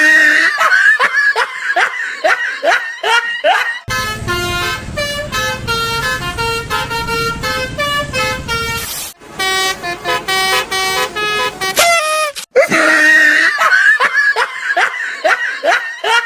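Basuri-style telolet bus horn playing a tune of stepped, held notes in the middle stretch. It is framed before and after by runs of short, quickly repeated downward-sliding toots.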